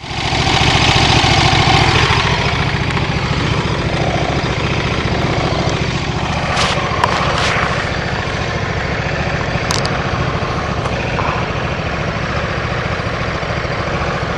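KTM RC8's V-twin engine running steadily at low revs, with a few short higher-pitched sounds about seven and ten seconds in.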